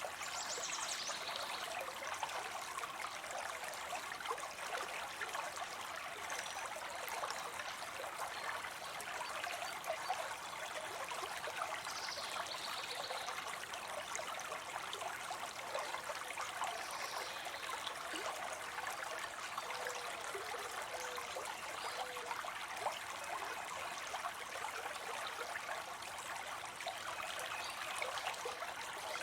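Water spilling into a pond, a steady splashing trickle of falling water.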